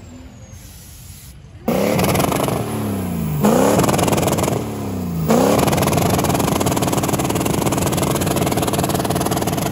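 Diesel truck engine revving hard: after a quieter start the revs jump up and fall away three times, then stay high and steady for the last few seconds.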